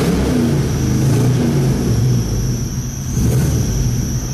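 Freshly built LS V8 engine in a 1972 GMC Jimmy K5, running steadily through a new dual exhaust with Flowmaster mufflers. The note dips slightly a little past halfway and then comes back up.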